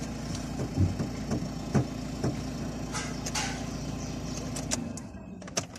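Nissan Qashqai engine idling at about 1,000 rpm, a steady low hum heard from inside the cabin, with a couple of short knocks in the first two seconds. The hum stops near the end.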